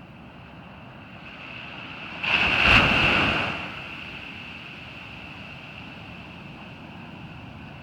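Ocean surf at a beach, with a wave breaking loudly about two seconds in, a sudden rush of water that fades over about a second and a half. A steady high-pitched tone runs underneath throughout.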